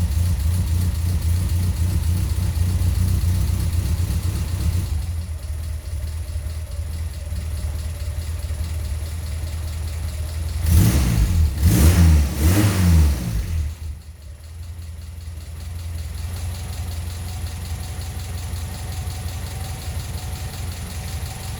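Toyota 4K-C 1.3-litre pushrod four-cylinder in a Corolla KE55 idling while warming up after a cold start, with a loud tappet. About halfway through it is revved in a few quick throttle blips, the loudest part, then it drops back to a steady idle.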